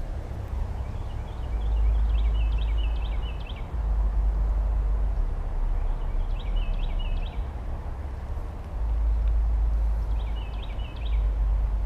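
Wind buffeting the microphone in gusts, with a bird singing short, repeated chirping phrases three times: about a second in, halfway through, and near the end.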